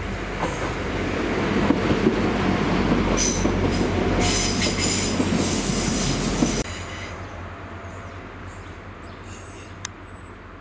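Diesel multiple-unit passenger train passing directly underneath, with engine rumble, wheel-on-rail noise and high-pitched wheel squeal, loudest as it goes beneath. About two-thirds of the way through, the sound drops sharply to a quieter, more distant train running away.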